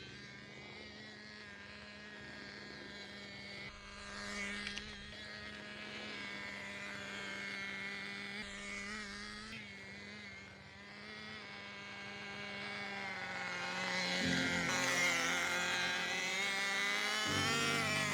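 Small two-stroke glow engine (OS MAX CZ12) of a Kyosho Pure Ten GP nitro RC car running with a buzzing note, its revs rising and falling. It gets louder and higher from about three-quarters of the way in.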